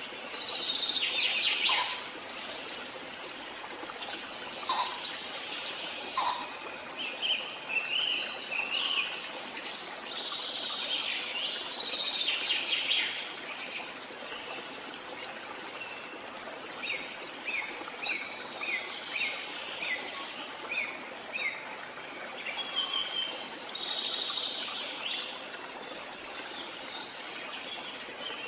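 Songbirds singing and chirping in bursts of rapid high phrases, with a run of short repeated notes, about two a second, around two-thirds of the way through, over a steady background hiss.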